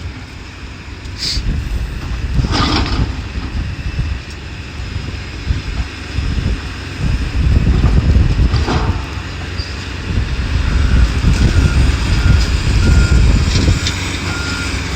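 Heavy demolition machine's engine running with a low rumble under load, with a few sharp knocks. From about ten seconds in its reversing alarm beeps steadily as it backs up.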